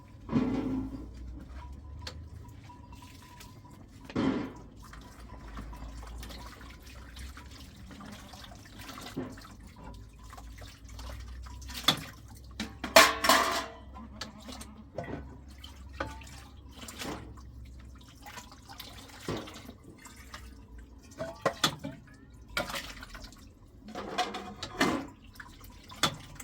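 Water splashing and dripping in short, irregular bursts, with a few sharp knocks, the busiest stretch about halfway through.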